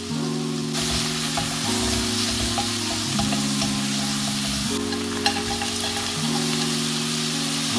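Diced chicken sizzling in a hot nonstick pan as it is stirred with a spatula, with a few light taps. Background music of sustained chords plays under it.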